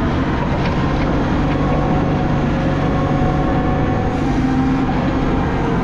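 Heavy machine engine running steadily: a loud low hum with a few held tones that shift slightly partway through.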